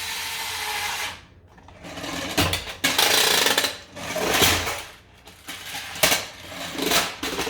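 Toy truck's repair sound effects and mechanism after its red button is pushed: a run of loud, noisy mechanical bursts, like power tools and hammering, as the truck fixes itself.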